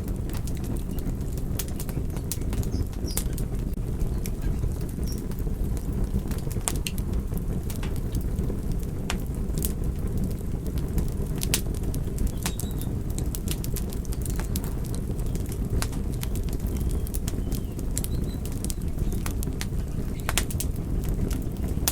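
Crackling fire: a steady low rumble of burning with scattered sharp crackles at irregular intervals.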